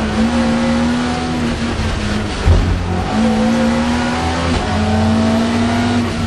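Mk2 Ford Escort hillclimb car's engine, heard from inside the cabin, revving hard. Its pitch climbs and drops back three times through the gears. There is a single thump about two and a half seconds in.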